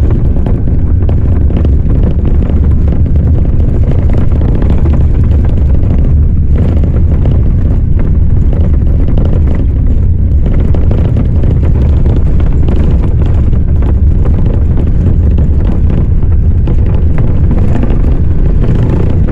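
Loud, steady low rumble of wind buffeting the microphone, with the haze of a moving vehicle underneath.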